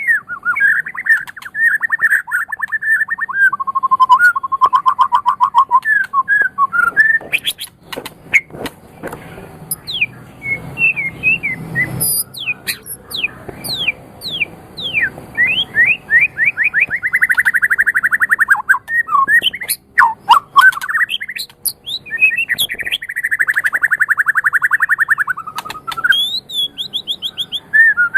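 White-rumped shama singing a long, varied song: fast rattling trills and chattering phrases mixed with sharp downward-sliding whistles, with several long buzzy trills held for a few seconds at a time.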